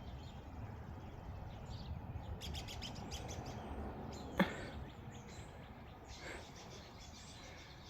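Birds chirping outdoors, with a quick run of short high chirps a couple of seconds in, over a steady low rumble. A single sharp knock about four and a half seconds in is the loudest sound.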